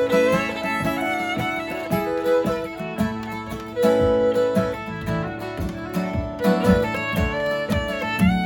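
Instrumental folk tune: a fiddle plays a quick running melody over a steady strummed and picked guitar accompaniment.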